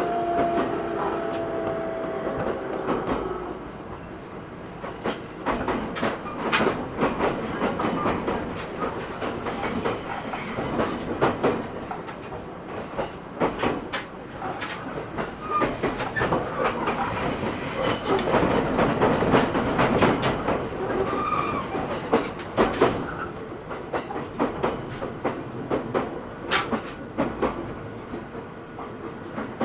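Running sound inside an E127 Series 0 electric train carriage: steady wheel-and-rail rumble, with the wheels clacking irregularly over rail joints. A whine fades out in the first few seconds.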